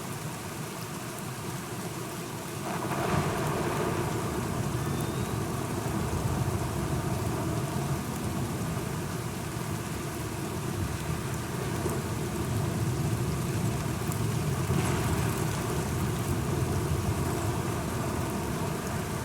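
Steady rain with a long, low rumble of thunder that rolls in about three seconds in and keeps going, swelling again in the last few seconds.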